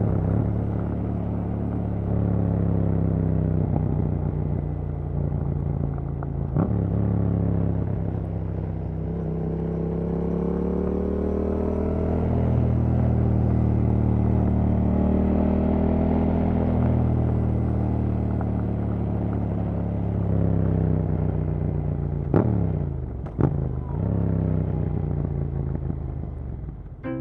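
2019 Yamaha MT-07's parallel-twin engine through a Yoshimura R77 carbon fiber slip-on exhaust, riding on the road, its pitch rising and falling as the throttle is worked through the gears. Near the end come two sharp blips about a second apart.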